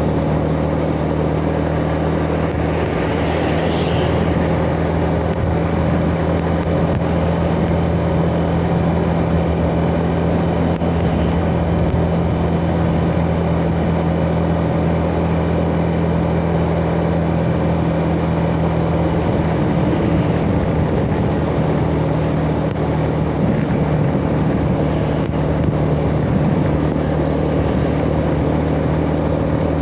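Yamaha Jupiter Z motorcycle's single-cylinder four-stroke engine running at a steady cruising pitch while riding, picked up close by a chest-mounted phone, with wind and road noise underneath. There is a brief hiss about three seconds in.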